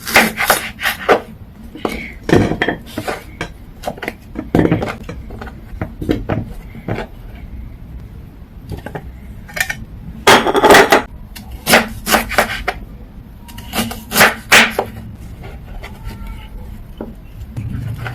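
Kitchen knife chopping a large carrot into quarter-inch rounds on a cutting board: a run of uneven knocks, with quieter gaps and a denser, louder stretch about ten seconds in.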